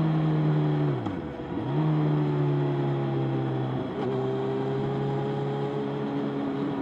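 Motorcycle engine running at a steady pitch. About a second in it drops sharply in revs and climbs back within about half a second, the pattern of a gear change, and near four seconds the pitch briefly shifts again.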